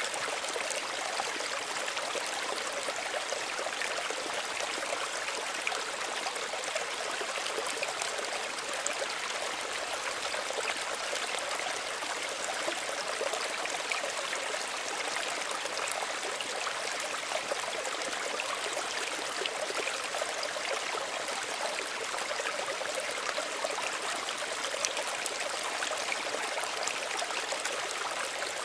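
Small stream running over its bed, a steady, gentle sound of flowing water, light and hissy with almost no low rumble.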